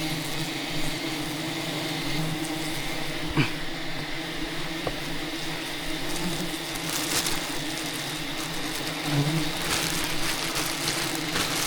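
Steady buzzing hum of a mass of wild honey bees around their hive, with one sharp click about three and a half seconds in.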